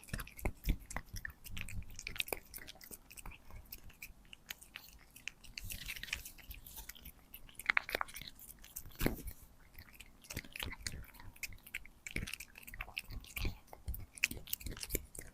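Munchkin cat chewing a treat: a steady run of small irregular crunches and clicks of its teeth.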